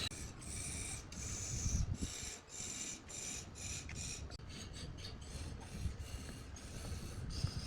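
A hand tool scraping or rasping against wood in repeated strokes, about two a second at first and quicker after about the halfway point.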